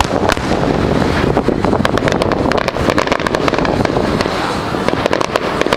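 Aerial fireworks display going off: a dense run of cracks and pops, several a second, over a constant low rumble.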